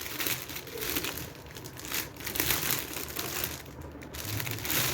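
Plastic wrapping on a marker set crinkling irregularly as it is handled and pulled off.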